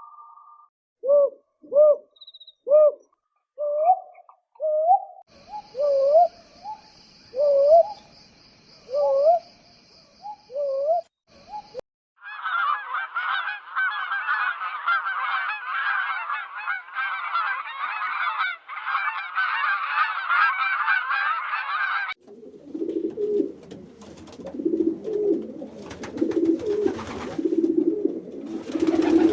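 A run of bird recordings: goose honking in separate calls about once a second, then a dense chorus of many birds calling at once from about 12 seconds in, then low, repeated pigeon cooing from about 22 seconds in.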